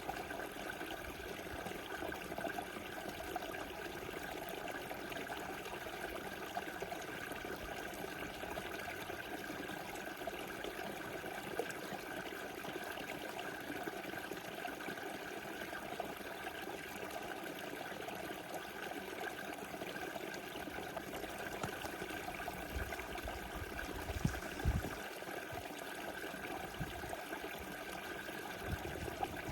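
Small river flowing with a steady rushing sound. A few brief low bumps come about three-quarters of the way through.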